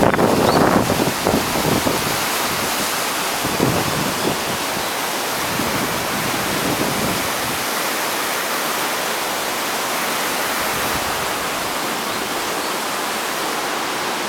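River in flood after a typhoon, its swollen water rushing in a steady, even roar. Wind buffets the microphone in the first two seconds.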